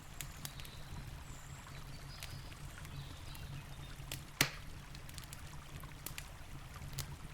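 Campfire wood crackling with scattered sharp snaps and one loud pop a little past halfway, over the steady rush of a river.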